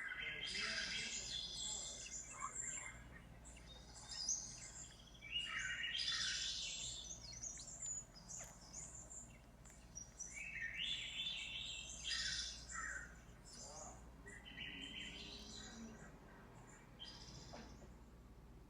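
iPhone 6s Plus ringtone of bird chirps and tweets, played through the phone's loudspeaker in bursts every few seconds.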